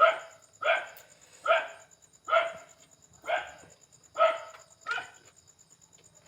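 A dog barking repeatedly, seven short barks a little under a second apart, stopping about five seconds in. A faint steady high-pitched whine lies underneath.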